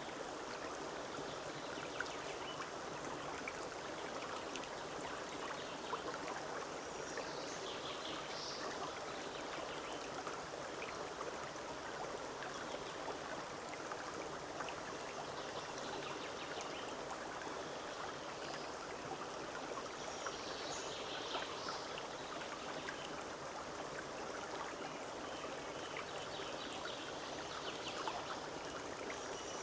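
Forest brook running steadily over stones, a constant rushing and babbling of water. A few short bird calls come through about a quarter of the way in, about two-thirds through, and near the end.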